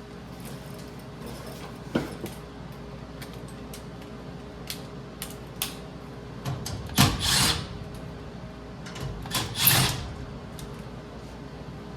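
Scattered clicks and knocks of tools and parts being handled, with two louder rustling, scraping bursts about seven and nine and a half seconds in, over a steady low hum.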